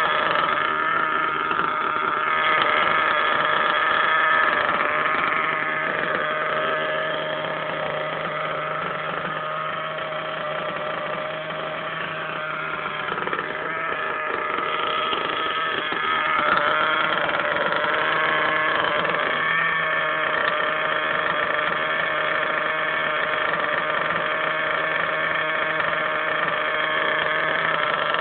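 Picco .21 nitro engine of a Hobao Hyper ST Pro truggy running steadily during break-in, easing off a little in the middle and picking up again about two-thirds of the way through.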